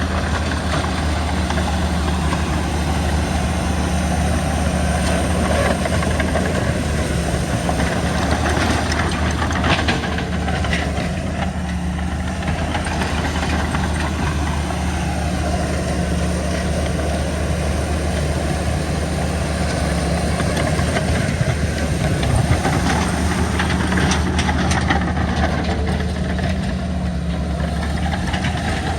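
Heavy earthmoving machine's diesel engine running steadily with a low hum, with brief clattering about ten seconds in and again a little past twenty seconds.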